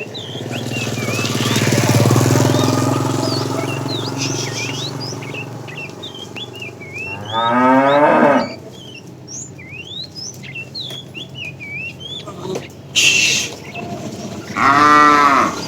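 Cattle mooing: one long, low moo at the start, then two shorter, higher calls about seven seconds and fifteen seconds in. Small birds chirp throughout.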